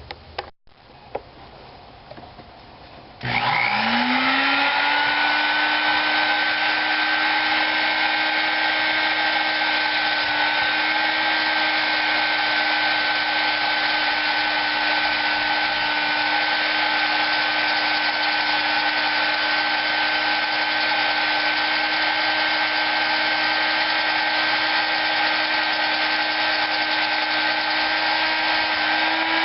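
High-speed electric rotary tool fitted with a polishing pad, spinning up about three seconds in and then running at a steady whine while polishing the Predator 212 engine's cylinder head to a near-mirror finish.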